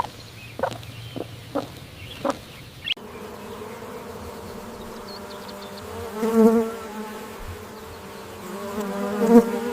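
A few short clucking calls from farm fowl, then, about three seconds in, a bee buzzing with a steady hum that swells louder twice as it flies near.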